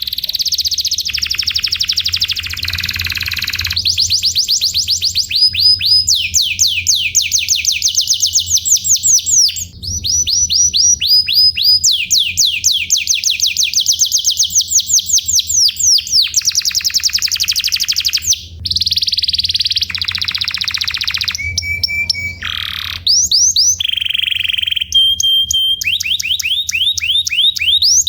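Domestic canary singing a long, varied song: fast rolls of rapidly repeated downward-sweeping notes, broken by buzzy passages and a few short held whistles, changing phrase every few seconds.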